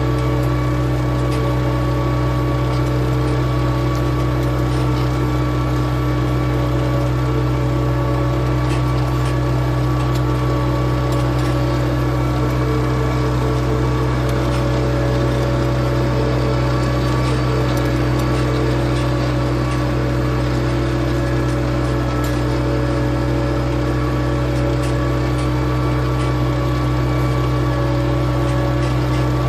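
A4800 tractor's engine running steadily under an even, unchanging drone.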